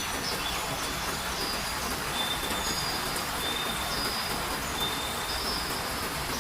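Steady rain falling, with a bird singing a series of short, clear whistled notes that alternate between a higher and a lower pitch, roughly one to two notes a second.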